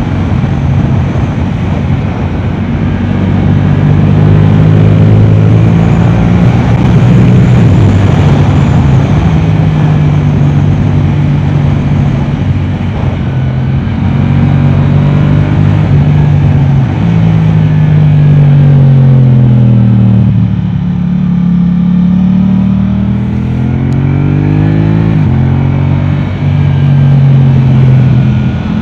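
Yamaha R7's parallel-twin engine through an Akrapovic exhaust, ridden hard: the engine note holds high with quick drops in pitch at gear changes, then the revs fall away for a few seconds past the middle and climb again as the bike accelerates.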